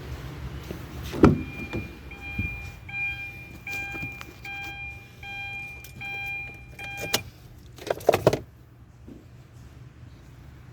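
A vehicle's electronic warning chime beeping about twice a second for about five seconds, then cutting off with a click. A loud clunk comes just before it starts, and two sharp knocks follow near the end.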